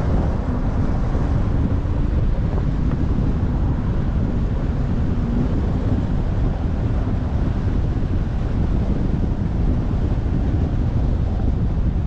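Wind blowing across the microphone: a steady, loud low rumble with a faint hum underneath.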